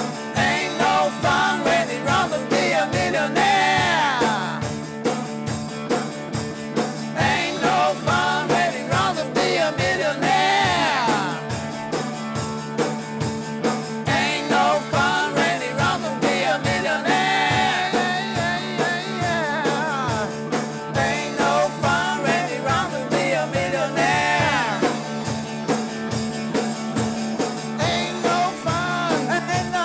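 Rock band playing: drum kit keeping a steady beat under guitar and bass, with a bending melodic line that may be vocals or lead guitar.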